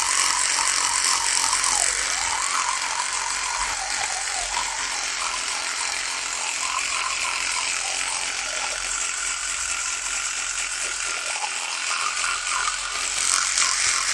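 Electric toothbrush running with a steady, high buzz whose pitch wavers up and down.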